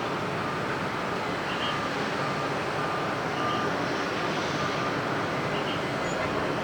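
Steady rushing noise of airliner jet engines. A short high beep repeats about every two seconds over it.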